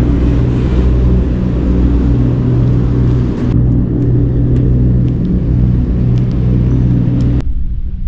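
A motor engine running steadily, a deep even hum with a hiss above it; the hiss cuts off suddenly near the end while the low hum goes on.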